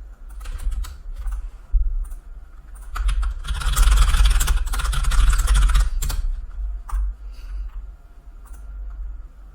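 Typing on a computer keyboard: scattered key clicks, with a louder, continuous run of clatter in the middle lasting about three seconds.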